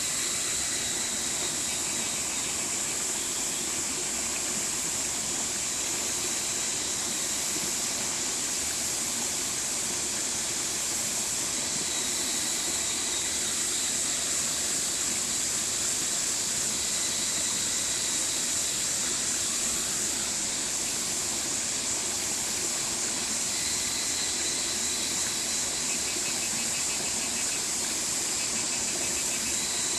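Mountain stream water rushing steadily over rocks, with a constant high-pitched hiss running over it.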